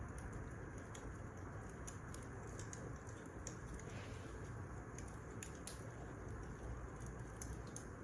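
Wood fire burning in a fireplace: a steady low hiss and rumble with irregular small crackles and pops throughout.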